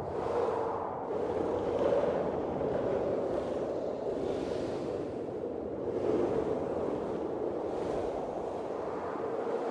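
Blizzard wind blowing in gusts: a steady rushing noise that swells and eases every second or two.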